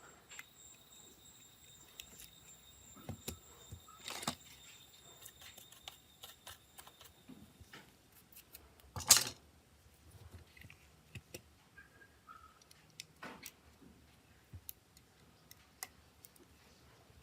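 Scattered small clicks and taps of tools and parts handled during smartphone repair work, with one sharp, much louder knock about nine seconds in. A faint steady high tone runs through the first eight seconds or so.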